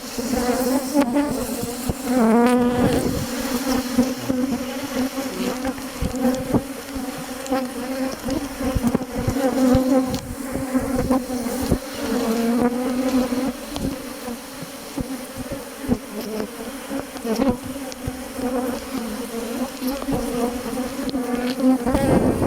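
Many honeybees buzzing around an opened Langstroth hive, a steady drone whose pitch wavers slightly, with scattered light clicks.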